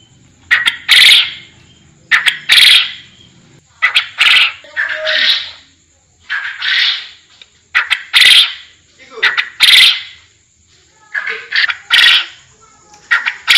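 Forest quail (puyuh hutan) calling over and over, a short burst of sharp notes roughly every one and a half seconds.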